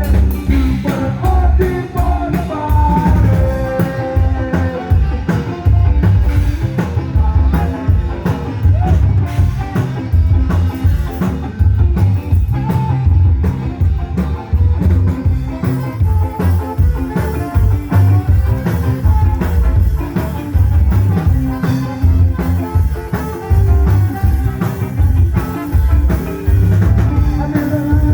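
A live band playing a rock song with singing, drums and a heavy, steady bass beat.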